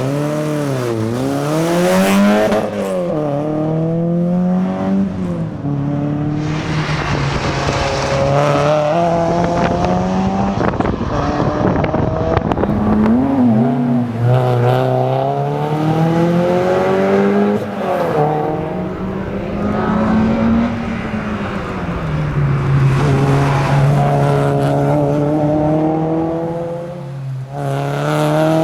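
Porsche 968 CS's four-cylinder engine driven hard, its revs climbing again and again and dropping sharply between climbs as it is shifted and braked. One climb near the middle is long and steady.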